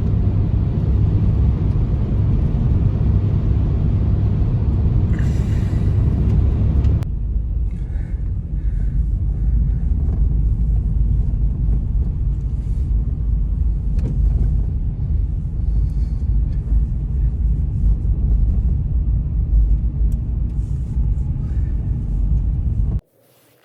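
Loud, steady low rumble of blizzard wind buffeting the microphone. It changes abruptly about seven seconds in to a similar rumble and cuts off suddenly near the end.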